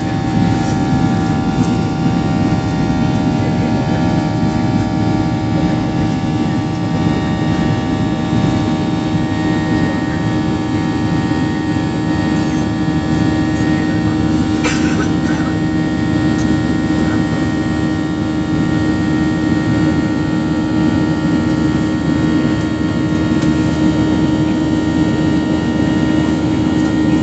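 Steady engine drone heard inside an aeroplane's passenger cabin: a constant hum with several steady tones, and a brief click about halfway through.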